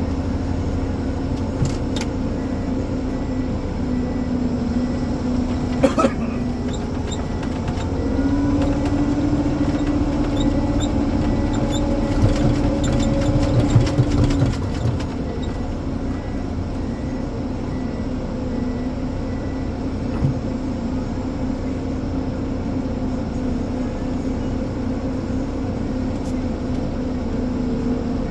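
Ponsse Elephant forwarder's diesel engine running steadily. Its pitch steps up about eight seconds in and settles back about six seconds later. There is a sharp knock near the start, a louder one a few seconds later, and a run of clicks and knocks just before the pitch drops back.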